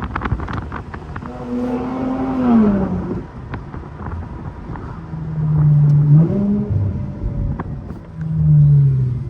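Infiniti Q50's twin-turbo engine through a muffler-deleted, straight-piped exhaust, pulling and easing off in three surges as the car accelerates; the note climbs and falls in pitch with each pull.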